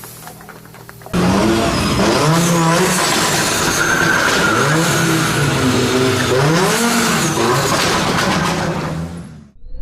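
Audi Quattro S1 rally car engine running hard. Its pitch climbs and drops repeatedly as it revs through the gears, then it fades away near the end.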